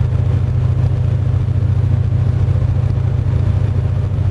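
Truck engine running with a steady, even low drone.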